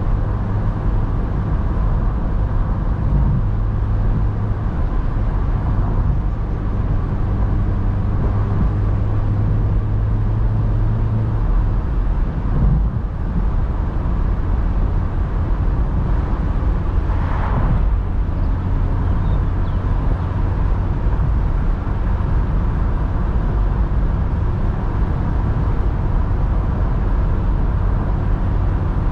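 In-cabin sound of a 2010 Mazda MX-5 NC's 1.8-litre four-cylinder petrol engine cruising steadily, under a constant hiss of tyre and wind noise. The engine drone drops a little in pitch about twelve seconds in, with a short knock just after. A brief whoosh swells and fades around seventeen seconds in.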